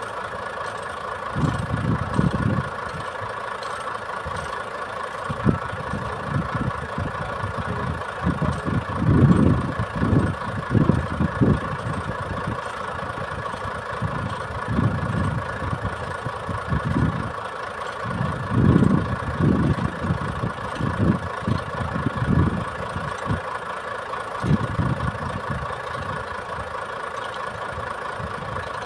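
Iveco Trakker 380 boom truck's diesel engine running steadily with a constant whine, with irregular low rumbling surges on and off.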